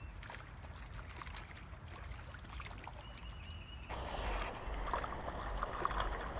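Creek water running, with scattered small clicks; the water noise grows louder and splashier about four seconds in.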